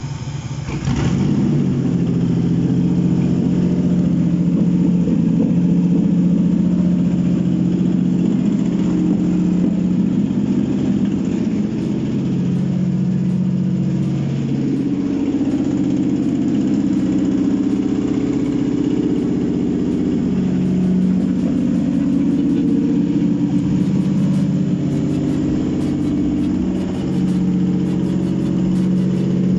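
Toyota 3GR V6 engine running steadily on an engine test stand, settling into a fast idle about a second in with small rises and dips in engine speed.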